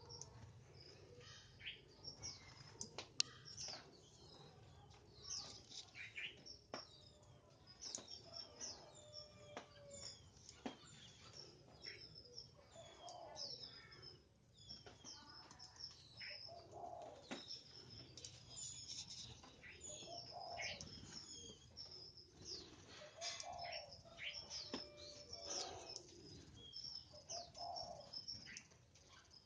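Faint birds chirping: many short, quick, high chirps throughout, with scattered light clicks. Lower, fuller calls join in about halfway through.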